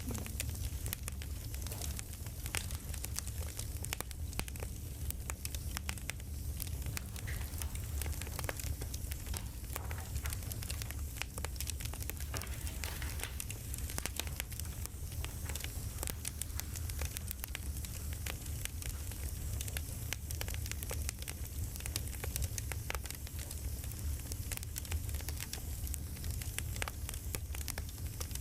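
Campfire crackling: a steady low rumble of burning wood with a constant scatter of sharp pops and snaps.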